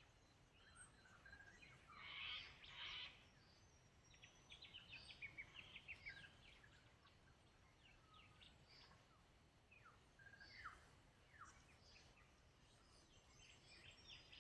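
Several birds singing and chirping, faint, over a low steady outdoor hiss. Two louder, harsh calls come about two seconds in, followed by a quick run of short chirps, then scattered calls.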